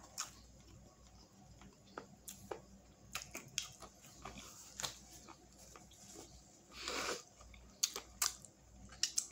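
Faint chewing of a sauced chicken wing at close range, with scattered small mouth clicks and a short soft rustle about seven seconds in.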